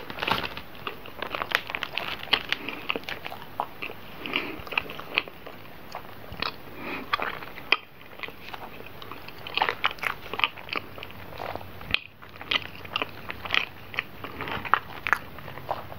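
Close-miked chewing of soft, cream-filled bread: a scattered run of small wet mouth clicks and smacks.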